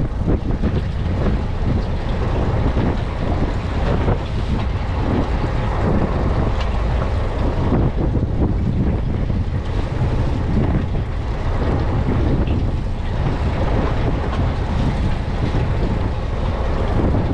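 Steady wind noise on the microphone aboard a fishing boat at sea, with the boat's own running and water noise beneath.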